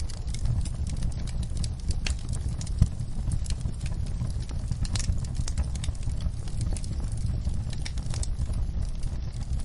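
Wood fire in a fireplace crackling: irregular sharp pops and snaps, one louder pop a little under three seconds in, over a steady low rumble.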